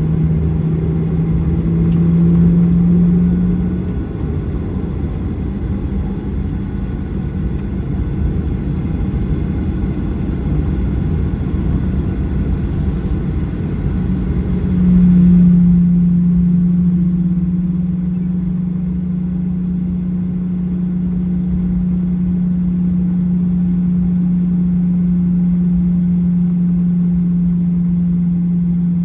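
Steady drone of a Boeing 737-900ER's CFM56 jet engines at low ground power, heard inside the cabin, with a low rumble and a steady hum. About halfway through the sound swells briefly and the hum steps up a little in pitch, then holds steady.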